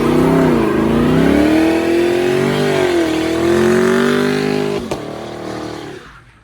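Vehicle engine revving hard, its pitch climbing and dipping several times, with a sharp click near the end before the sound fades away.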